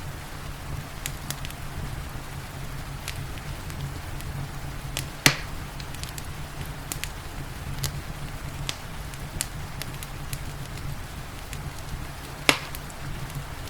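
Fireplace fire crackling with scattered sharp pops, two of them much louder, about five seconds in and near the end, over a steady background of rain and low rumble.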